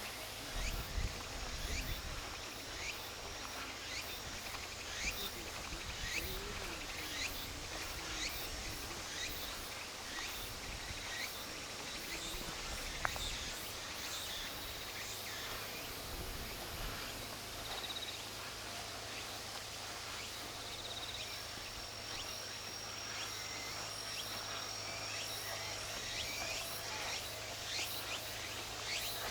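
Outdoor park ambience of many short, high, downward-sweeping chirps, with a steady high insect trill through the second half.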